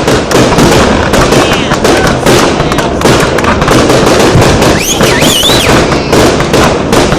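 Aerial fireworks display going off in a loud, dense barrage of bangs and crackling, one burst hard on the next.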